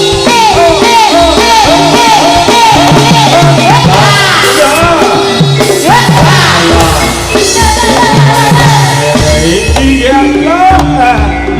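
Loud live Javanese jaranan (Turonggo horse-dance) accompaniment: a drum-driven ensemble playing a quick repeating rhythm under held pitched notes.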